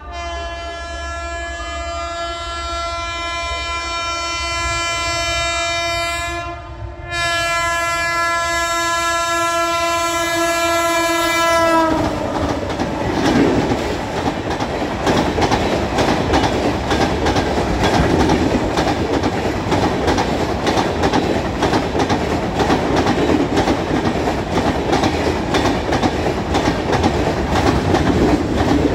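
WAP-7 electric locomotive's horn sounding two long blasts as the express approaches at about 90 km/h, the pitch dipping as the engine passes about twelve seconds in. Then the passing coaches make a steady rush, with their wheels clattering on the track.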